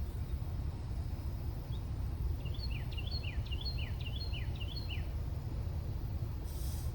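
A songbird calling a quick series of short, high, downward-sliding chirps for about three seconds in the middle, over a steady low rumble.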